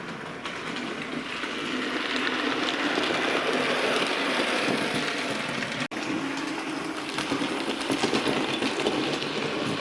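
Bachmann A1 Pacific model locomotive running on model railway track: a steady whirr of the small motor and the rattle of the wheels on the rails, growing louder as it comes nearer in the middle, with a momentary drop-out about six seconds in.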